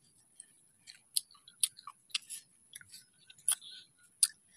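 Crisp, irregular crunching and clicking of a firm green carabaw mango being bitten and chewed close to the microphone.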